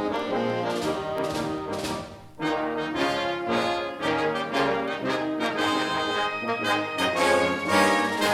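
Brass band music playing, with a brief break about two seconds in.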